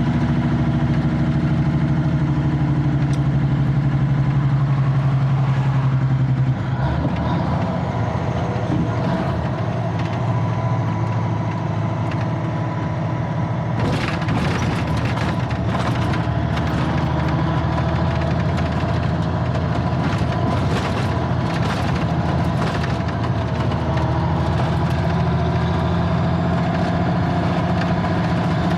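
Diesel engine of a 1985 Freightliner cabover semi truck running steadily; its note drops suddenly about six and a half seconds in. From about halfway there are irregular clicks and rattles over the engine.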